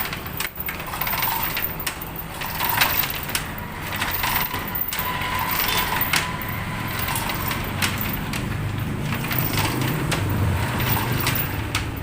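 Irregular metallic clinks and knocks of parts and tools being handled during an engine installation, over a low background rumble.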